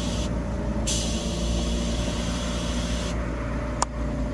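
Air-pump compressor running with a steady hum while air hisses through the hose into an e-bike tyre; the hiss cuts out briefly near the start and stops about three seconds in. A single sharp click sounds near the end.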